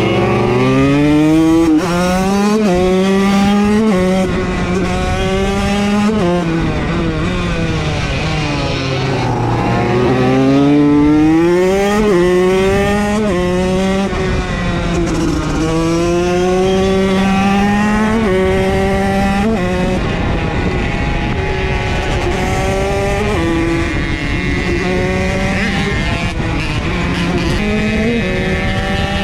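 KTM SX motocross bike engine under hard acceleration, its pitch climbing and then dropping back at each upshift as it pulls through the gears. It eases off about nine seconds in, then accelerates up through the gears again.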